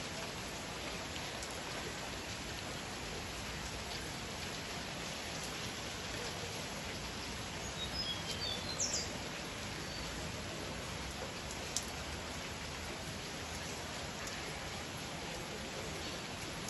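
Heavy rain falling steadily, an even hiss with no break. A few short high chirps sound about eight seconds in.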